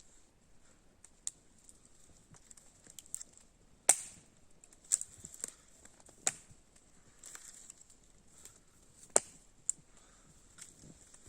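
Sharp, irregular cracks and snaps of firewood: a few loud ones, several seconds apart, among fainter ticks.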